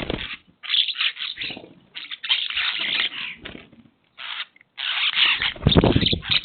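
Birds calling in a run of harsh, noisy bursts, with a low thump near the end.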